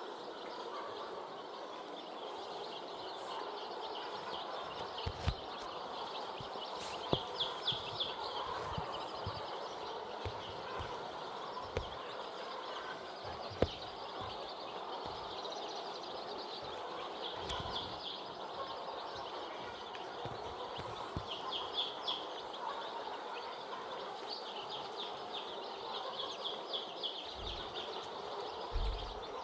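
A flock of young chickens peeping continuously, many high chirps overlapping, with a few scattered soft knocks.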